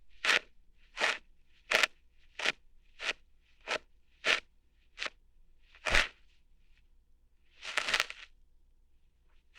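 ASMR ear-hair plucking sounds: a series of short, crunchy crackles, one about every 0.7 seconds, with a louder one about six seconds in and a longer, drawn-out one near the end.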